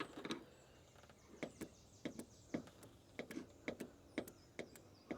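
Faint, irregular clicks and snaps, roughly two a second, as the old truck's starter is jumped at the solenoid and sparks without cranking the engine: a sign the owner takes for a stuck starter.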